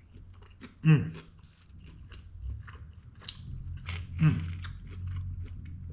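A person chewing and biting into a chicken taco up close, with many small wet crunching clicks. Two short falling hums of enjoyment come from the eater, about a second in and again about four seconds in.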